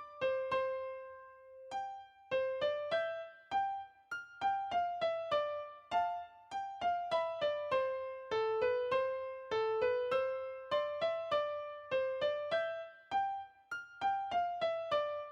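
Background music: a simple, gentle melody of single struck keyboard notes, about two to three a second, each note dying away.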